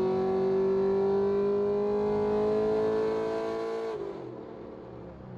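Car engine at high revs, pitch climbing steadily as the car accelerates hard. It cuts off sharply about four seconds in, leaving a quieter, low engine rumble.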